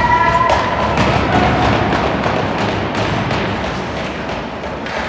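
Dull thumps and taps of hockey play, such as puck and sticks hitting the boards and ice, over steady rink and crowd noise. A held high tone ends about half a second in.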